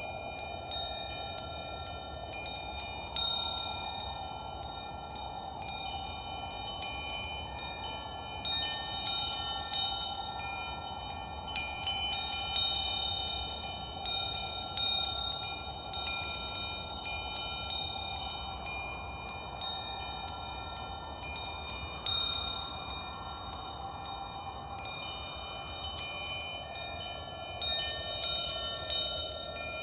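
Wind chimes ringing at irregular moments, their notes overlapping and sustaining, over a soft steady whoosh.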